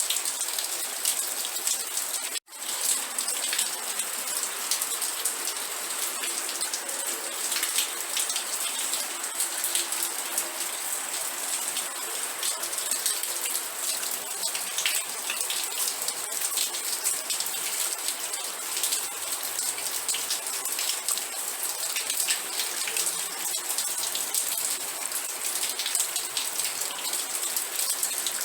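Steady rain falling, an even hiss full of individual drops ticking on a surface. The sound cuts out for a split second about two and a half seconds in, then carries on unchanged.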